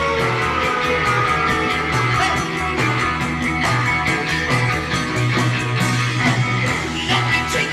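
1960s psychedelic rock recording: a full band with electric guitar, bass and drums playing at a fast, driving beat.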